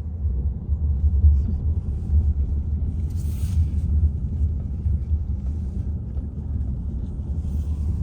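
Wind buffeting the microphone: a low, uneven rumble, with short hissy gusts about three seconds in and again near the end.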